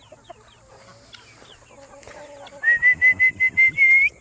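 Young chickens peeping with short falling notes and clucking. In the second half a loud, steady high whistle, pulsing about five times a second, runs for about a second and a half and rises slightly at the end.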